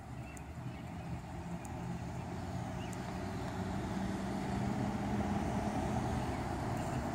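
A motor vehicle's engine on a nearby street, a steady low hum that grows gradually louder, as if the vehicle is approaching.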